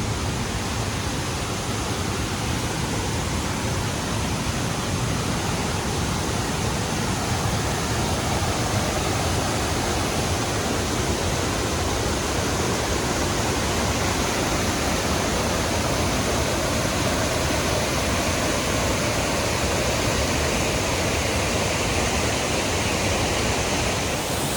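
Thunder River Falls rushing steadily as the water pours out of the canyon wall.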